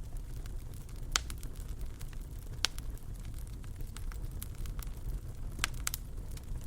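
Fireplace fire crackling over a steady low rumble, with scattered sharp pops: a loud one about a second in, another near the middle, and two close together near the end.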